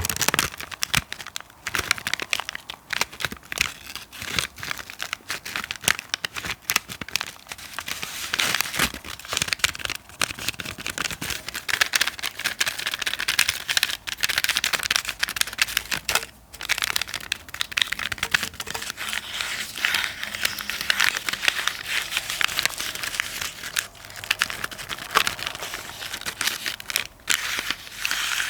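Close-miked ASMR crinkling and scratching: a dense, unbroken run of small crackles and scrapes, with a brief pause about halfway through.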